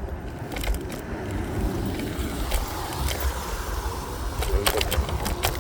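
Electric scooter riding over a snow-covered road: rumbling road and wind noise on the microphone, with a few sharp clicks near the end.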